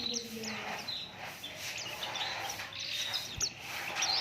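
White-eye (pleci) singing a fast, busy song of quick high chirps and short down-slurred notes. A low steady hum underneath stops about a second in.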